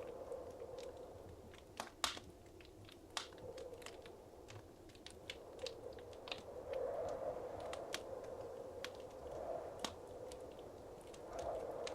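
Wood fire crackling in a fireplace: scattered sharp pops, the loudest about two seconds in, over a steady rush of flame that swells a few times, most strongly near the end.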